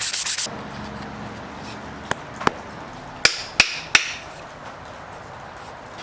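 Sanding stops about half a second in. Then come five sharp hammer strikes, each with a short ring, driving a wedge into the axe handle in the head's eye.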